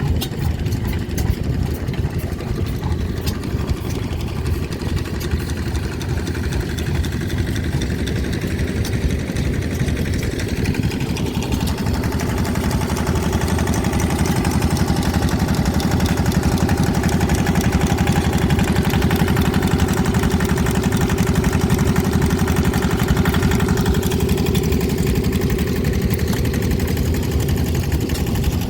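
Vintage stationary engine running steadily, its exhaust beats fast and even. From about twelve seconds in until about twenty-four, the sound grows a little louder with a steady hum added.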